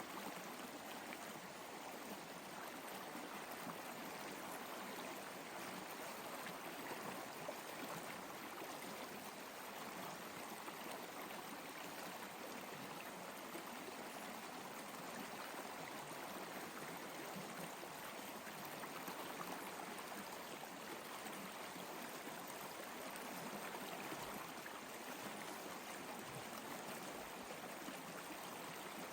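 Water running steadily in a stream, a continuous even rush with no pauses.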